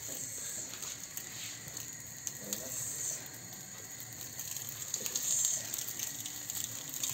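Breaded cutlets sizzling in hot oil as they are laid one by one into a non-stick frying pan, the hiss swelling briefly each time a piece goes in.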